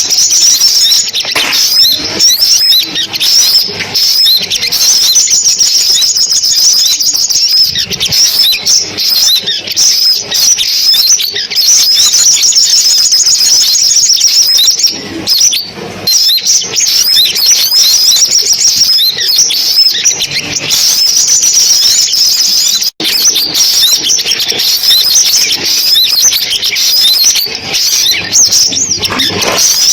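Sunbirds singing: a dense run of high, rapid chirps and trills, with one momentary break about 23 seconds in.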